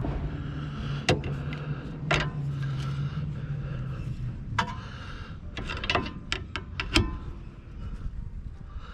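Scattered metallic clicks and knocks of a strut bolt and tools being worked while lining up a car's rear strut mount, over a low steady hum that fades out about four seconds in.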